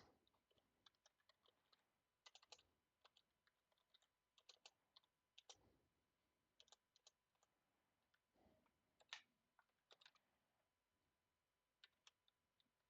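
Faint typing on a computer keyboard: irregular key clicks, some in quick runs, with short pauses between them.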